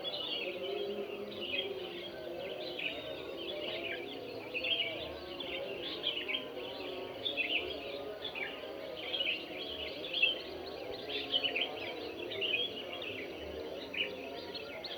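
Many birds chirping and calling at once, a dense run of short high chirps that never lets up, over a lower steady wash of warbling sound.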